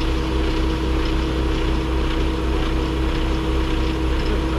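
Semi truck's diesel engine droning steadily, with a constant low rumble and a steady hum.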